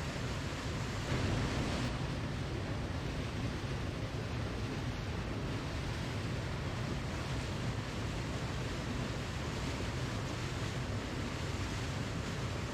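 Waterfall: a steady, even rush of falling water, swelling slightly about a second in.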